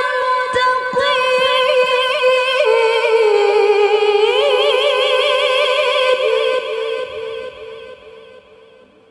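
A woman's high voice in Quranic tilawah, holding a long ornamented note with quick wavering trills in pitch, then fading out gradually over the last few seconds.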